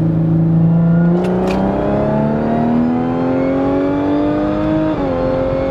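Audi SQ5's supercharged 3.0-litre V6, heard from inside the cabin, pulling hard in third gear: a steady note for about a second, then the engine pitch climbs smoothly under full throttle for about four seconds before dropping near the end. The engine is tuned and running an E40 ethanol blend.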